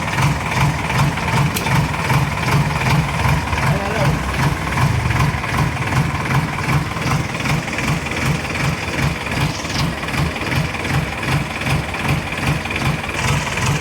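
JCB 3DX backhoe loader's diesel engine running steadily, with an even rhythmic throb.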